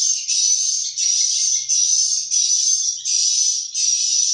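Edible-nest swiftlets twittering, a shrill chirping call repeated in even bursts each under a second long.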